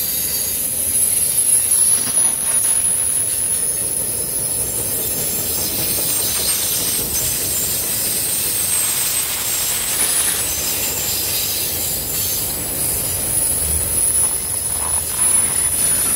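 Freight train's autorack cars rolling past with a steady rumble of wheels on rail, over which runs a thin, high-pitched wheel squeal as the flanges rub on the curve.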